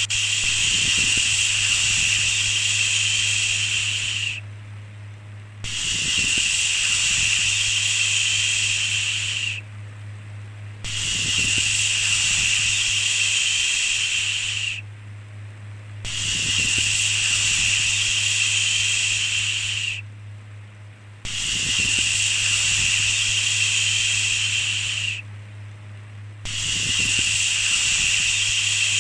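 A long, drawn-out 'shhh' shushing hiss repeated about every five seconds, each lasting about four seconds with a short pause between, over a steady low hum.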